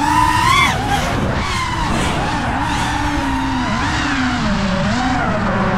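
5-inch FPV quadcopter's brushless motors and propellers whining in flight, the pitch sweeping up and down with the throttle: a sharp rise in the first second, then a fall and a wavering whine.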